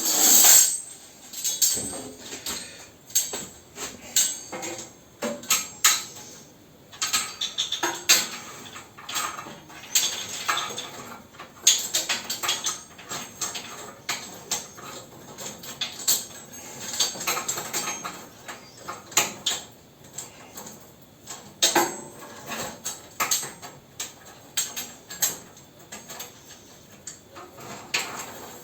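Metal parts of a pellet stove being handled and fitted back together: irregular clinks, knocks and scrapes of steel on steel.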